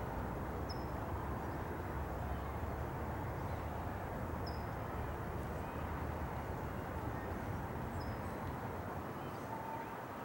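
A steady low rumble of outdoor background noise, with three short high chirps from a small bird about every three and a half seconds.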